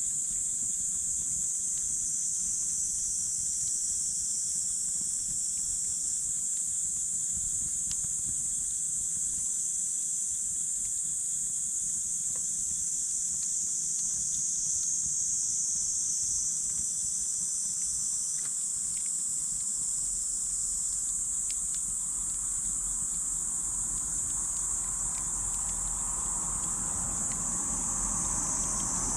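A steady high-pitched chorus of insects, with a wood campfire crackling now and then in small sharp snaps. A broad, rumbling noise swells near the end.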